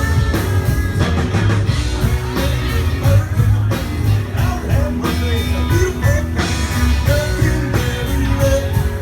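Country-rock band music with a steady drum beat, guitar and a singing voice.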